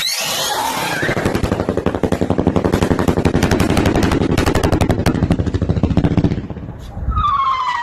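Firework barrage of rapid crackling pops in quick succession, like machine-gun fire, which breaks off after about six seconds. Near the end a whistle starts, sliding slowly down in pitch.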